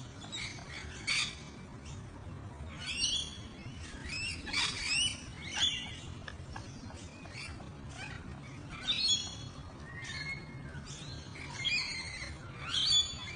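Lovebirds giving short, shrill chirping calls that bend up and down in pitch, repeated at irregular intervals of a second or two.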